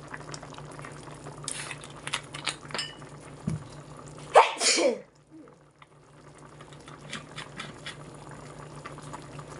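Sauce simmering in a pan, with small crackles and drips. About four and a half seconds in comes one short, loud, voice-like burst whose pitch rises and falls, and after it the background drops away for about a second.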